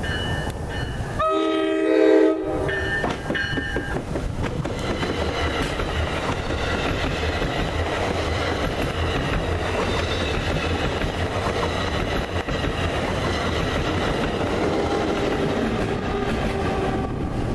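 NJ Transit commuter train of bi-level MultiLevel coaches sounds its horn, a chord of several tones about a second in that lasts around two seconds. It then passes close by with a steady rumble and its wheels clacking over the rail joints.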